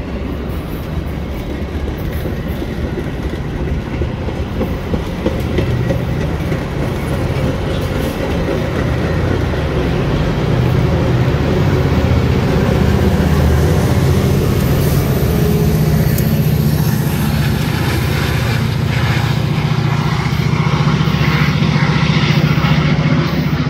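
Metra commuter train passing: the bilevel coaches' wheels clatter over the rail joints, then the two EMD diesel locomotives, an F40PH-3 and an F59PHI, go by under power. Their engines' low drone grows louder from about halfway through.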